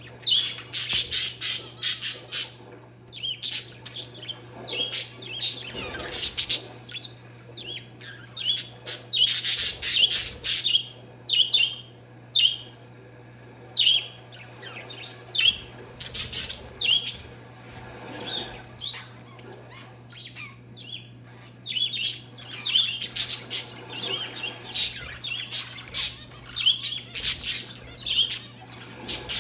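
Parakeets and zebra finches chirping, with clusters of short, high calls and squawks and brief lulls in between, over a steady low hum.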